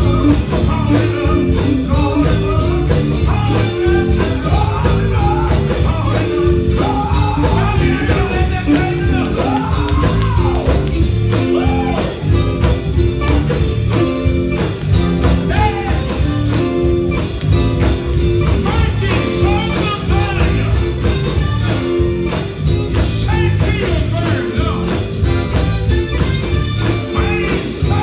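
Live gospel band music, with drums, bass and electric guitar playing steadily and singing woven through.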